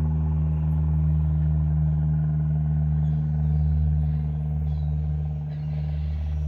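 A steady low mechanical hum made of several fixed low pitches, the drone of an idling vehicle engine. It eases slightly near the end.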